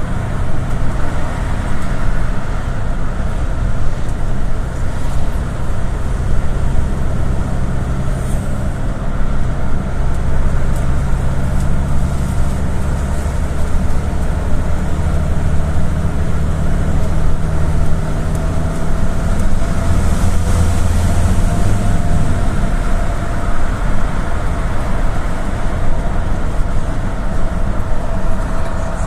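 GAZelle City minibus heard from inside the passenger cabin while driving: a steady engine drone over road and tyre noise. The engine note climbs through the middle and drops off about two-thirds of the way through, as the bus gains speed and then eases off.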